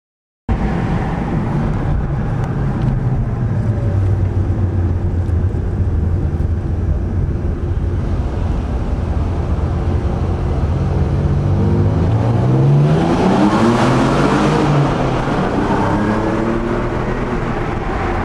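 1992 Dodge Stealth R/T Twin Turbo's twin-turbo V6 on its stock exhaust, running at a steady low note in a tunnel. About twelve seconds in it accelerates hard in first gear, the engine note rising in pitch and getting louder before settling.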